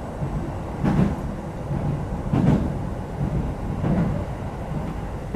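Interior running sound of a Kintetsu 2430 series electric train: a steady low rumble with a heavier thump about every one and a half seconds, as the wheels pass over rail joints.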